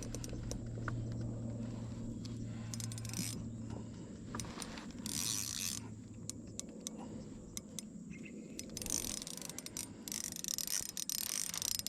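Small spinning fishing reel being wound in short spells with many light clicks and rustles, as a prawn is brought in on light line. A steady low hum runs under the first half and then fades.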